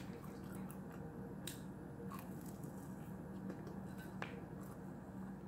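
Quiet eating sounds of banana bread being chewed, with small sharp clicks and a light tap about four seconds in as the slice is set down on a ceramic plate, over a steady low hum.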